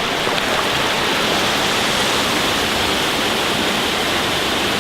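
Waterfall pouring steadily into a pool: a constant, loud rush of falling water.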